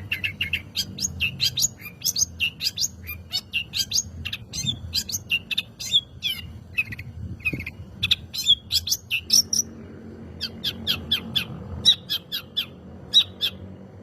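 Long-tailed shrike (cendet) singing in full voice: a rapid, varied string of sharp chirps and short trills, broken by a brief pause a little after the middle.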